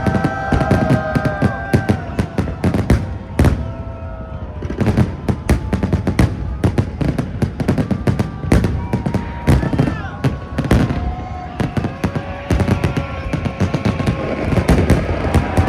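Aerial fireworks going off: bangs and crackles in quick, irregular succession over a continuous low rumble.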